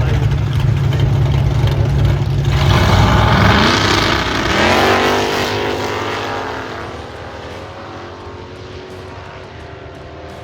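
Two American muscle drag cars rumbling at the start line, then launching about two and a half seconds in. Their engines rev up, rising in pitch twice, and the sound fades away down the strip.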